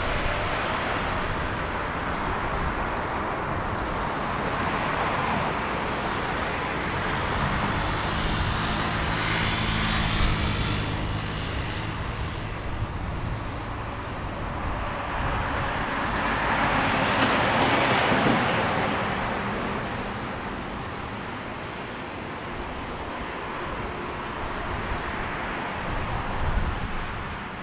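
Rolls-Royce Trent XWB engines of an Airbus A350-900 climbing away after takeoff, heard as a distant rumbling jet roar that swells and fades, mixed with wind on the microphone.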